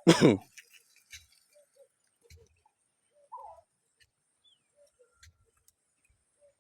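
Birds calling: a loud call falling in pitch right at the start, then a few faint short calls and chirps, one a little louder about halfway through.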